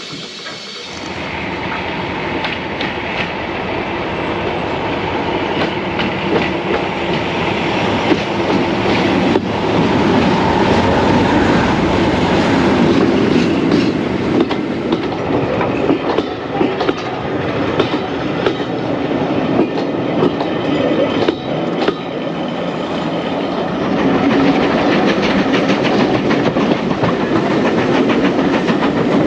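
Heritage-line passenger train running on the rails, wheels clattering over the track. It grows louder from about a second in as the train gets under way.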